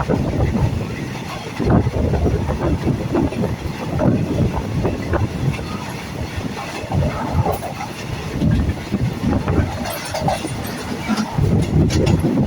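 Diesel-hauled passenger train moving along the track: a continuous low rumble with irregular knocks and clatter from the wheels on the rails.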